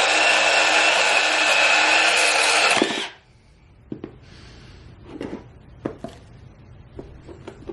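Milwaukee M12 cordless compact band saw running with a steady whine, cutting off suddenly about three seconds in. A few light knocks and clicks follow.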